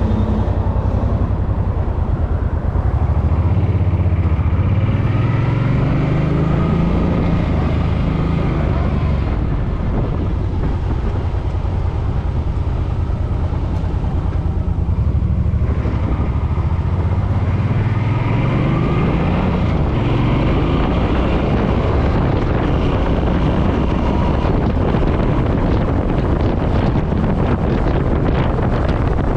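Suzuki M50's V-twin engine pulling away and accelerating, its pitch climbing twice through the gears, with wind rushing over the microphone.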